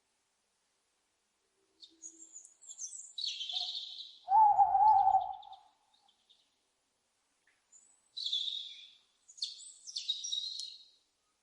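Owls calling: high, harsh screeches about two seconds in and again twice near the end, and one short, wavering hoot-like call about four and a half seconds in.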